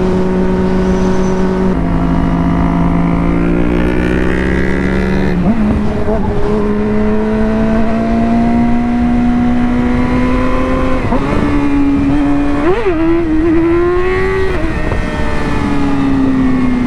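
Yamaha R6 inline-four sport bike engine pulling hard through the gears. Its pitch climbs, then drops sharply at each of three upshifts, and sinks gently near the end as the throttle eases off.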